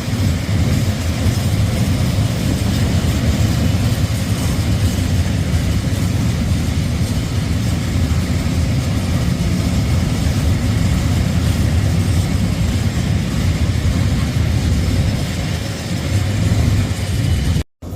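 Diesel train engine running steadily with a low, even drone. The sound cuts out for a moment near the end.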